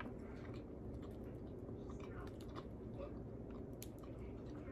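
A person chewing crispy fried chicken, faint wet chewing with scattered small crunches and clicks over a steady low hum.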